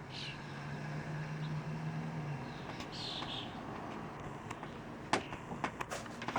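Small birds chirping a few times over a steady low hum that stops a little after two seconds; a run of sharp clicks follows near the end.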